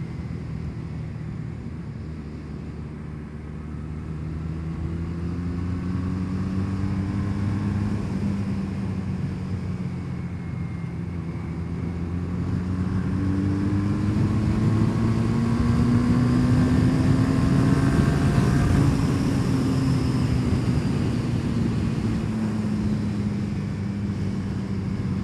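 1984 Honda CB450SC Nighthawk's parallel-twin engine running under way. Its note dips early, climbs slowly to a peak about two-thirds of the way through, then eases down again.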